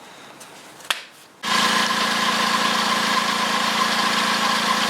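VW up! 1.0 MPI three-cylinder petrol engine idling steadily, cutting in abruptly about a second and a half in after a single click. No squeal comes from the freshly replaced ribbed belt drive.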